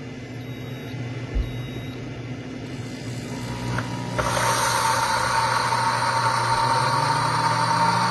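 Two short electronic beeps from the Deluxe Cooking Blender's controls over a low steady hum. About four seconds in, its motor starts on the grind setting and runs loudly and steadily with a whine, grinding whole coffee beans.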